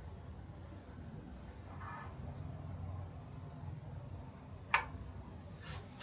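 Faint handling noises over a low steady hum, with one sharp click about three-quarters of the way through.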